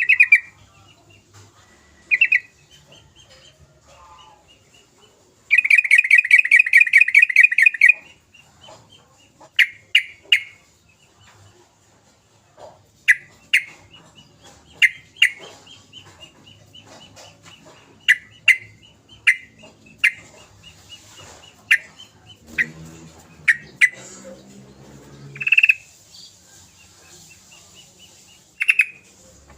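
Yellow-vented bulbul (trucukan) calling: short sharp chirps repeated at irregular intervals, and a loud, rapid chattering trill lasting about two and a half seconds, starting about five seconds in. A lower, throatier sound comes in about three-quarters of the way through.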